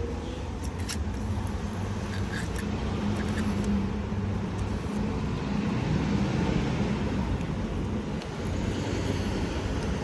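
Steady low hum of idling vehicle engines and traffic, with a few faint high clicks in the first few seconds.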